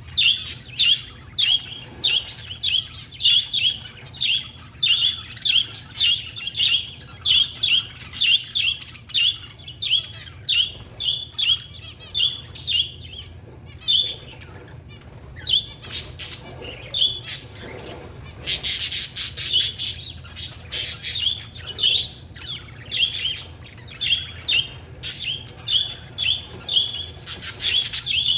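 Pet parakeets and zebra finches calling: a steady run of short, high chirps about two a second, with a louder, harsher burst of chatter about two-thirds of the way through.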